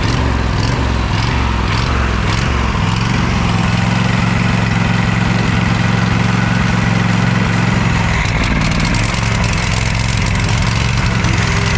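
Cub Cadet riding mower's engine running at full throttle while water is poured into its carburetor intake to steam out carbon. The note is uneven and pulsing for the first few seconds, then settles into a steady run.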